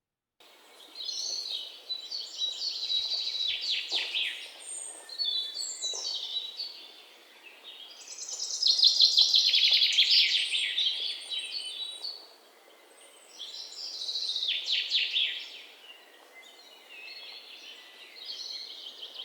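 A bird singing in long, high, fast-trilling phrases separated by short pauses, the loudest phrase about halfway through.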